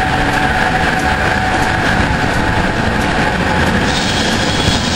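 Light rail train carriages running past the platform: a steady rumble of wheels on rail with a steady high whine over it.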